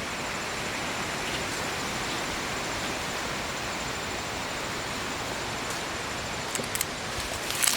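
Steady outdoor background hiss, with a few faint rustles and clicks near the end.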